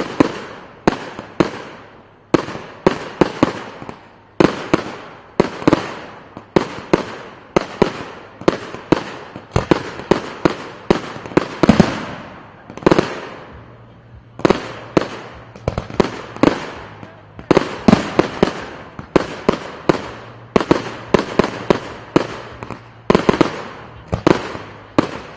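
Aerial firework shells bursting in quick succession, about two sharp bangs a second, each with a short echoing tail.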